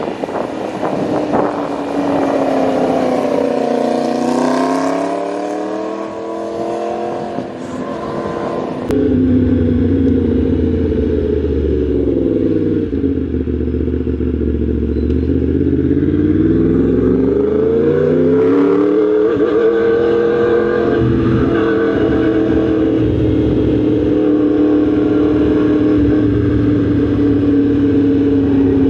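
Yamaha MT-10 SP's crossplane inline-four engine under way. Its pitch climbs and falls a few times as it accelerates and shifts, then holds fairly steady at cruise. A low rumble comes in suddenly about nine seconds in.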